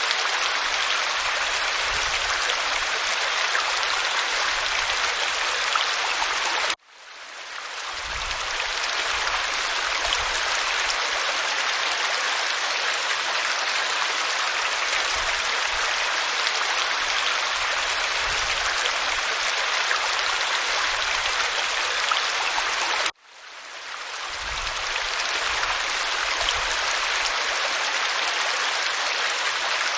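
Waterfall pouring over rock, a steady hissing rush of water. It cuts out abruptly twice, about 7 and 23 seconds in, and fades back up over a second or two each time: the seams of a looped recording.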